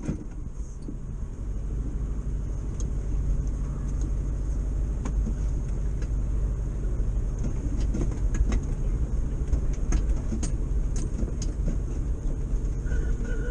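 1973 VW T2 bus's air-cooled flat-four engine running as the bus drives slowly away, a steady low rumble that builds a little over the first couple of seconds, with scattered light clicks over it.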